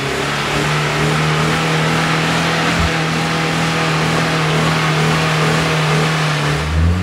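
UAZ off-roader's engine held at steady high revs while the vehicle sits stuck on the hill climb, with its pitch rising a little near the end.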